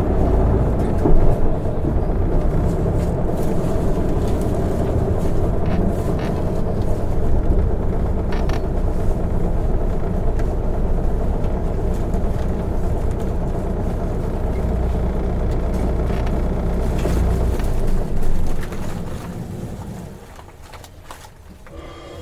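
Isuzu Erga city bus, a diesel on the road, heard from inside the cabin: a steady, loud engine and road rumble. About eighteen seconds in it swells briefly, then dies away to a much quieter sound as the bus slows.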